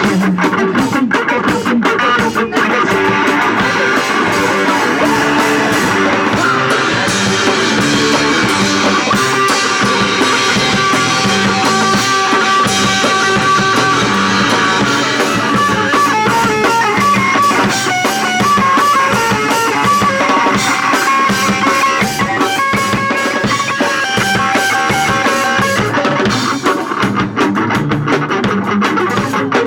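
Punk rock band playing live: electric guitar and drum kit, loud and steady, with a guitar line of held notes over the beat.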